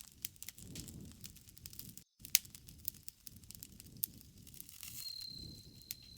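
Campfire crackling: burning wood snapping and popping in sharp clicks over a low rumble of flames, with a brief dropout about two seconds in. A steady high insect trill starts about five seconds in.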